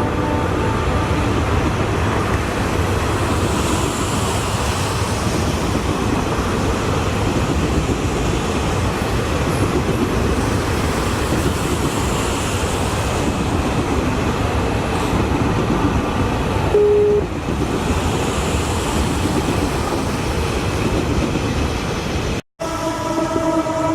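A train running on the line, a steady loud rumble of wheels and track noise. It is broken about two-thirds in by a short single horn toot, and near the end, after a brief cut-out, by a chord horn sounding steadily.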